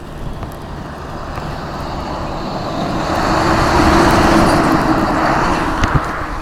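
A motor vehicle passing close by. Its engine and tyre noise on the wet road rise to a peak about four seconds in and then fade.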